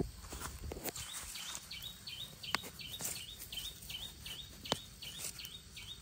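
A small bird repeating a short high chirp about three times a second, starting a second or so in, over a low outdoor hiss. Two sharp clicks, the loudest sounds, come about two and a half and four and a half seconds in, from the digging knife working dry soil.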